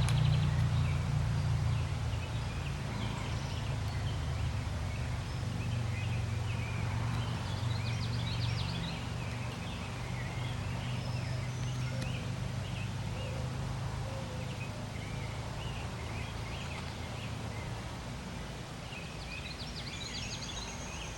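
Woodland birdsong: several birds calling, with a short rapid trill about eight seconds in and another near the end, over a steady low rumble that slowly fades.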